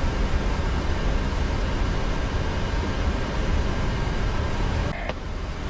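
Steady rumbling and hissing cockpit noise of a parked aircraft before engine start, with a brief dip about five seconds in.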